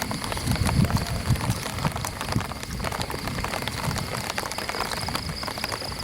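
Light rain pattering on an umbrella as many small, dense drop ticks, with irregular low footsteps of someone walking underneath it.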